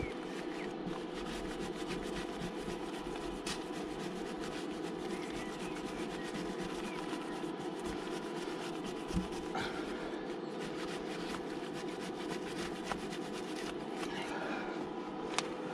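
Wire brush scrubbing a freshly welded steel joint, a continuous scratchy scraping that cleans off the weld. A steady hum runs underneath, with an odd knock.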